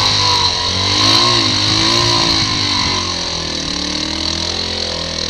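Motorcycle engine running in a low gear on a rough, technical dirt road, its revs rising and falling several times, under a steady rush of wind and road noise.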